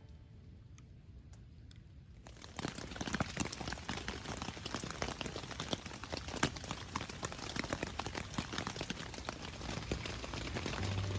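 Rain pattering in dense, irregular ticks, starting about two seconds in after a near-quiet opening.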